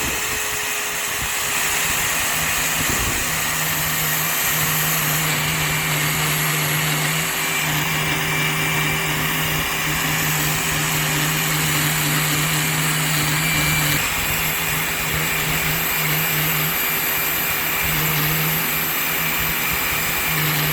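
A motor running steadily and loudly, with a constant whine over a rushing noise and a low hum that comes and goes.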